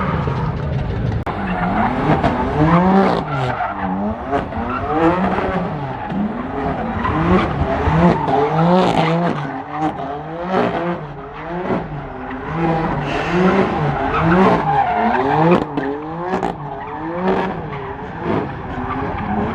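A car drifting, its engine revved up and down over and over, a little more than once a second, with the tyres skidding.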